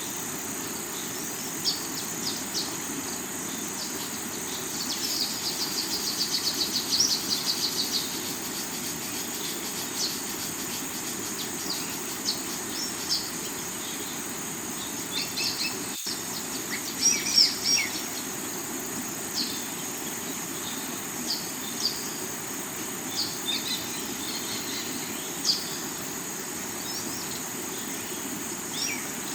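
Steady rush of river water flowing over rocks, with birds chirping on and off above it and a quick rattling trill a few seconds in. A steady high-pitched insect drone runs underneath.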